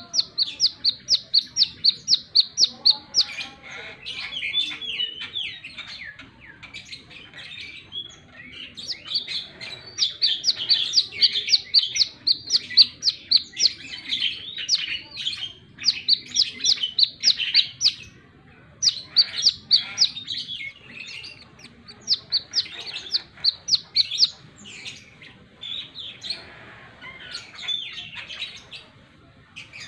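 Brown-throated sunbird (kolibri kelapa) singing: runs of rapid, evenly repeated high chips, about five a second for a few seconds at a time, broken by lower jumbled twittering.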